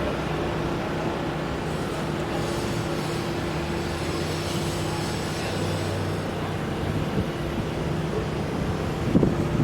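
Steady mechanical running noise with a constant low hum, and a few short knocks near the end.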